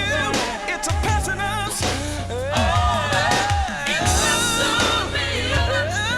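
Gospel music: a singer's wordless, wavering runs over a steady band accompaniment with a deep bass line.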